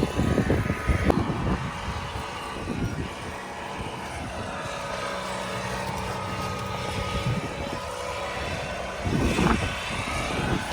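Steady drone of a car engine running, with brief louder swells about a second in and again near the end.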